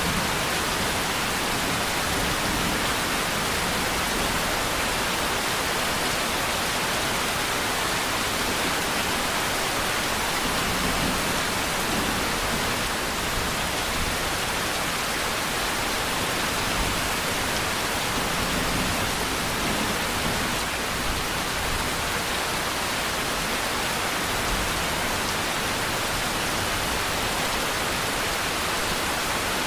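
Steady rain falling, an even hiss of rainfall with no distinct drops standing out and no change in intensity.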